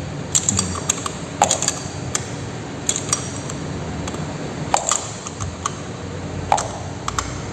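Metal hand tools clinking on a motorcycle's clutch adjuster as its lock nut is tightened with a ring spanner while a flat-blade screwdriver holds the adjusting screw: scattered sharp metallic clicks, three of them ringing briefly.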